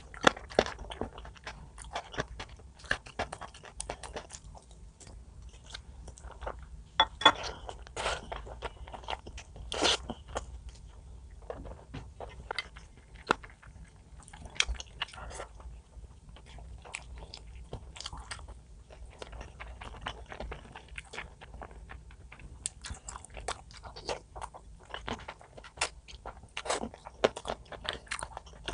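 A person biting and chewing crunchy food close to the microphone: a steady run of irregular crisp crunches, a few of them louder.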